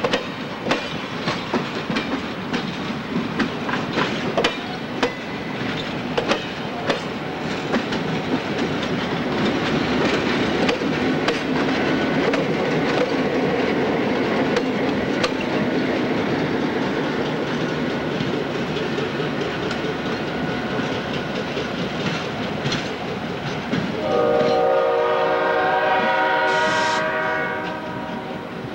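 Passenger train wheels clicking over rail joints as the cars roll past, giving way to the steady running noise of a passing train. About 24 seconds in, an F-unit diesel locomotive's multi-tone air horn sounds one chord for about three and a half seconds.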